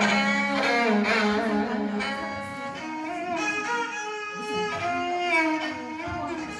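A bowed string instrument playing a melody of held notes with vibrato.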